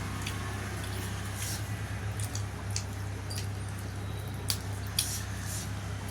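Wet chewing and lip-smacking of dhido and spicy chicken being eaten, irregular clicks with a few louder smacks about three-quarters of the way through, over a steady low hum.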